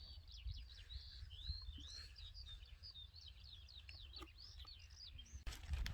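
Songbirds singing: a fast, continuous run of high chirps and slurred whistles, faint over a low rumble of wind on the microphone. A brief rustle comes near the end.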